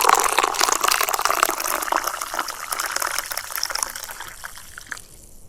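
Freshly brewed coffee being poured from a French press into a cup, a steady gush that tapers off and stops shortly before the end.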